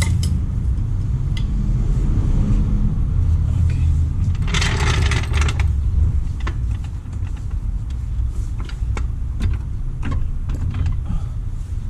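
Light metallic clinks of hand tools and loose suspension hardware being handled, with a louder scrape lasting about a second some four and a half seconds in, over a steady low rumble.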